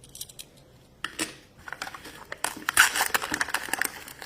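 Plastic toy packaging crinkling and rustling as it is handled, in a rapid run of small crackles that starts about a second in.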